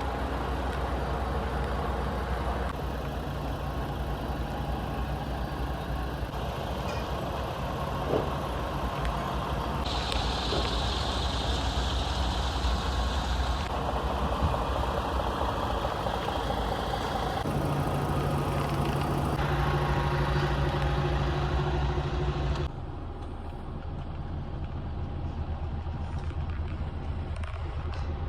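DAF XF 480 tractor unit's PACCAR MX-13 six-cylinder diesel idling steadily, the sound changing abruptly several times between joined clips.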